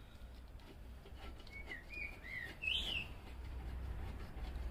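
A few short bird chirps, about four in a row in the middle of the stretch, the last one higher than the rest, over a steady low hum.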